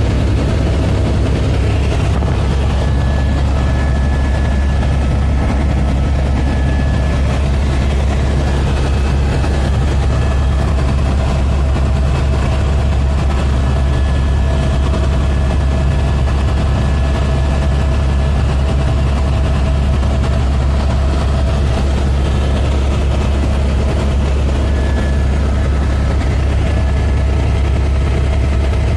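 Helicopter's engine and rotors running steadily: a loud, even, low drone with faint steady higher tones over it.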